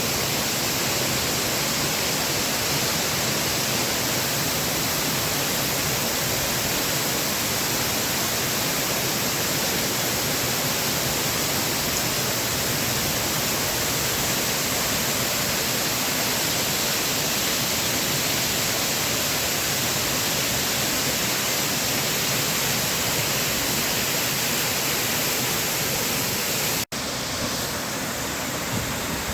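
Waterfall pouring, a steady rush of water. Near the end it cuts out for an instant and comes back a little quieter.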